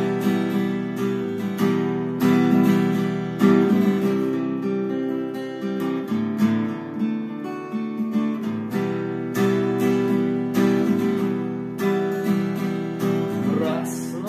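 Acoustic guitar strumming chords, with the strings ringing on between strokes and no voice: an instrumental passage of the song.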